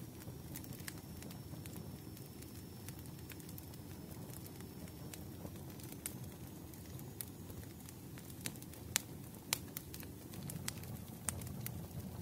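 Wood fire crackling: a steady low rumble with scattered sharp pops and snaps, the loudest two close together about nine seconds in.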